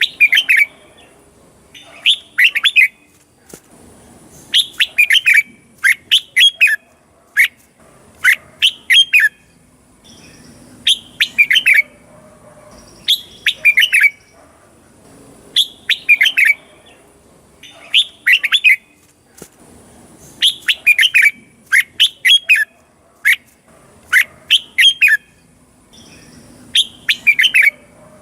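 Red-whiskered bulbul singing: short, bright phrases of quick, sweeping chirped notes, repeated every second or two with brief pauses between.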